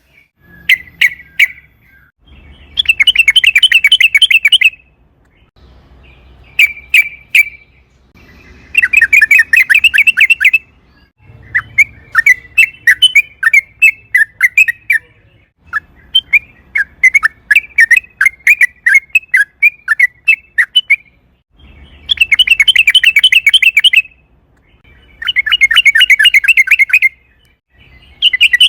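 Yellow-vented bulbul (trucukan) singing: fast, bubbling phrases of about two seconds each, alternating with looser runs of separate chirping notes and short pauses.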